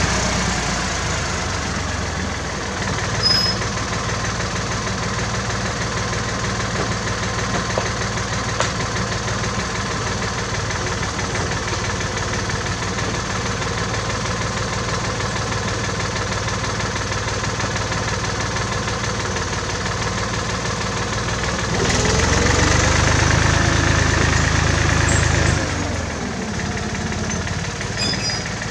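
1967 David Brown tractor engine running at a steady idle. About three-quarters of the way through it is revved up for a few seconds, then drops back to idle.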